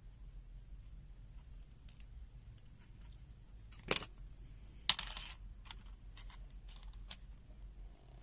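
Small plastic clicks and taps from handling a multimeter and its parts, with two louder sharp snaps about four and five seconds in.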